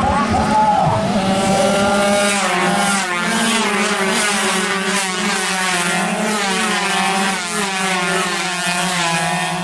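Several two-stroke underbone racing motorcycles at high revs together, their engine notes rising and falling as they race, easing off slightly near the end.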